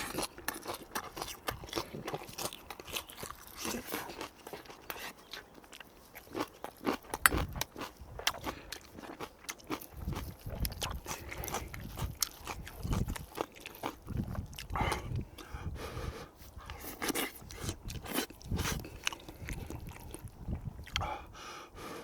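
A person eating: close-up chewing with many irregular wet mouth clicks and crunches.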